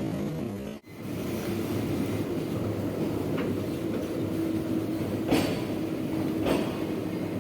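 BHEL AC metro rake running slowly along the track: a steady running noise with a faint low whine, and two sharp clacks, about five seconds in and again a second later.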